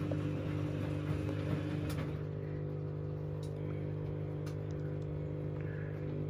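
Washing machine running on a down programme with pillows inside, its motor giving a steady hum, with a few faint clicks from the drum.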